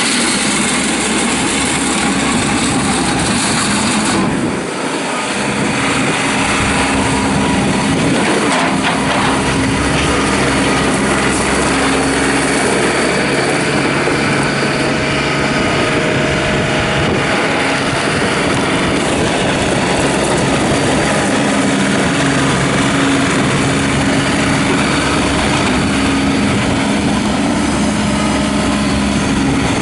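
John Deere 3720 compact tractor's diesel engine running steadily. Its pitch shifts a little over the stretch, and the level dips briefly about four seconds in.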